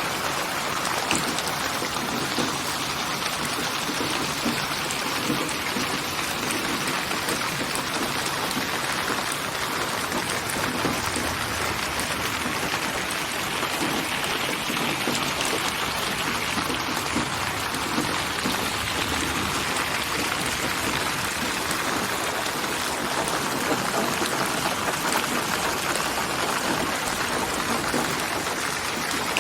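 Steady rainfall: an even, unbroken hiss of falling drops.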